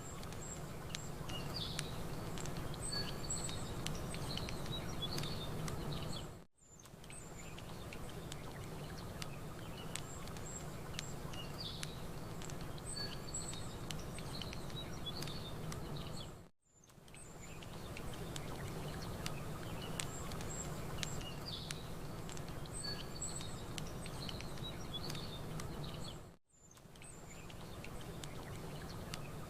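Small birds chirping and campfire crackle, sharp little pops, over a steady low rush. The sound is a recording looped about every ten seconds; it drops to silence for a moment three times, each drop followed by a quick fade back in.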